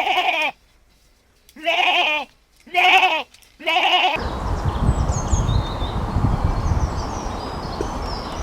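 A goat or sheep kind of farm animal bleating four times, each call short and quavering. About four seconds in it cuts to a steady low rumble with faint high bird chirps.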